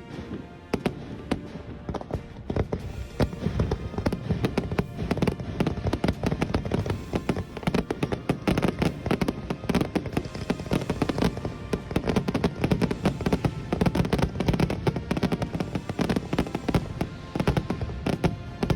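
Fireworks display with many shells going off in quick, overlapping bangs and crackles, with music underneath.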